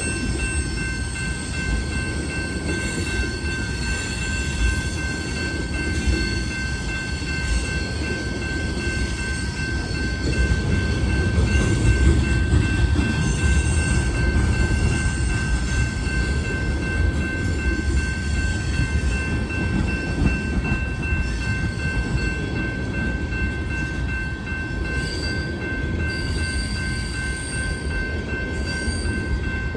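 Freight train of tank cars rolling past with a steady low rumble of wheels on rail, and a constant high-pitched squeal of wheel flanges against the rails.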